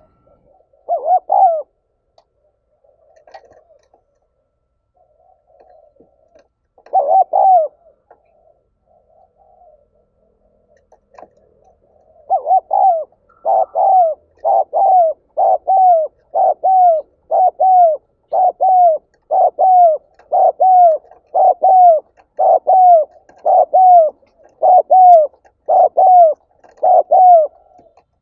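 Spotted dove cooing. Two short phrases come near the start; then, after a pause, there is a long even run of quick coos, each a short falling note, about one and a half a second. This fits the fast, urgent calling that keepers call 'gáy thúc'.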